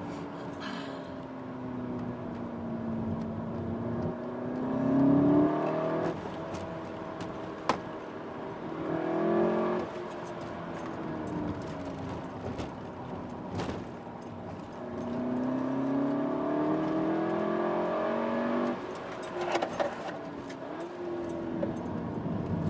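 Cupra's turbocharged four-cylinder engine and exhaust on the move, the revs climbing and dropping back several times as it pulls through the gears. There is a sharp click about eight seconds in.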